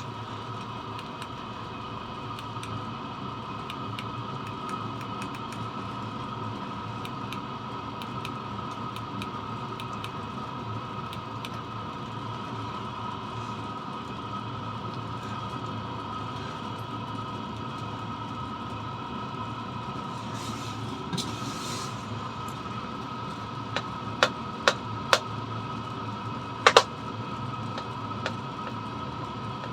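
Chinese diesel parking heater running steadily: an even hum with a two-note whine from its blower and burner, and no regular ticking from the fuel pump, which has been made silent. A few sharp clicks sound near the end.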